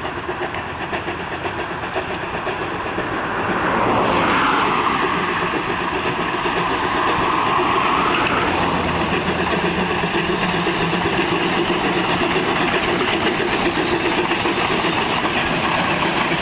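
A train running on the rails, a steady rumble with wheel clatter that swells about four seconds in and then holds.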